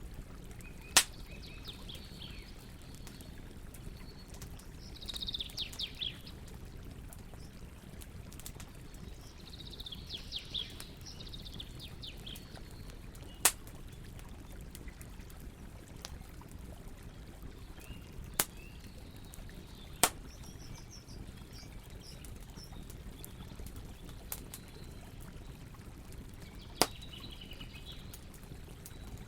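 Campfire crackling, with about five sharp pops standing out over a steady low rumble. Short bursts of bird chirping come in three times.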